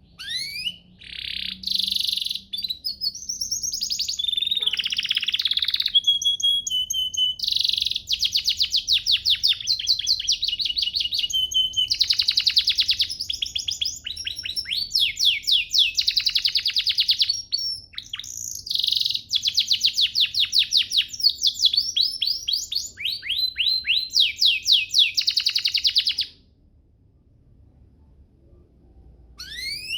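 Domestic canary singing a long, continuous song of rapid trills and chirped rolls. The song stops about 26 seconds in, and a new phrase starts just at the end.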